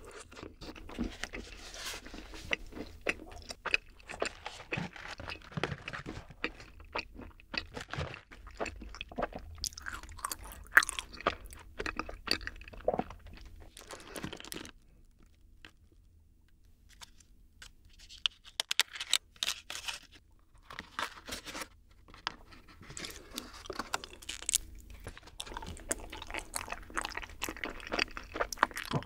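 Close-miked chewing of sticky yakgwa, the Korean honey cookie, with wet crunching mouth sounds for about the first half. After a few seconds of near quiet, crisp paper crinkling follows as a small wrapped block of ice cream is unwrapped.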